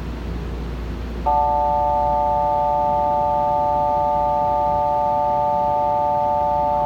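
Platform departure buzzer at Nankai's Namba Station: a loud, steady chord of several pure tones. It starts about a second in and holds without a break, signalling that a train is about to depart.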